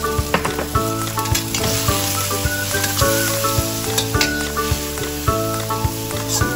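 Raw peeled shrimp, onion and garlic sizzling in hot oil in a wok, stirred with a metal slotted spatula that clicks and scrapes against the pan many times.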